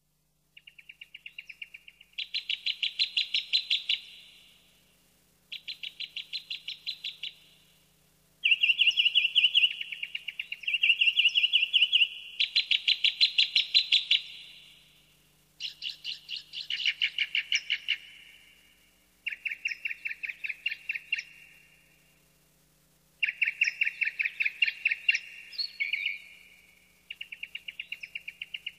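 Songbird singing a run of rapid trills, each a quick string of even notes lasting one to two seconds, repeated about ten times with short pauses between.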